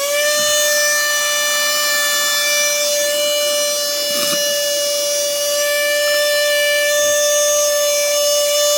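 Mini handheld vacuum cleaner's motor running with a steady high-pitched whine, having just spun up; a short rustle about four seconds in.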